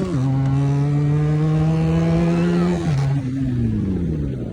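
Motorcycles (a Benelli 300 and a KTM Duke 250) under hard acceleration in a drag race. The engine note drops with a gear change just as it starts and again about three seconds in, then falls in pitch and fades away near the end.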